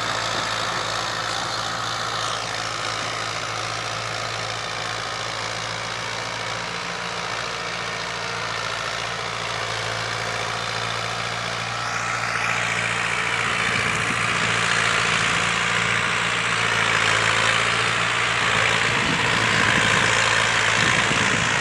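Fiat 640 tractor's diesel engine running with a steady low note. About twelve seconds in it grows louder, with more hiss and rattle over the engine note.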